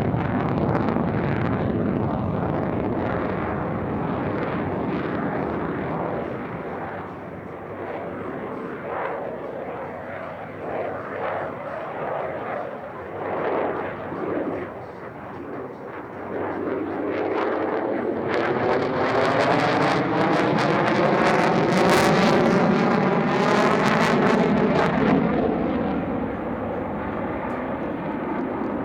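F-35A Lightning II's jet engine roaring through an airshow pass. The noise eases off in the middle, then builds to its loudest as the jet passes close, with a swirling sweep in pitch, and fades a little near the end.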